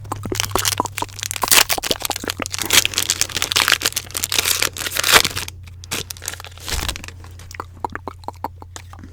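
Crinkly wrapper being crumpled and handled in dense crackles for about five seconds, thinning to scattered clicks, with a steady low hum underneath.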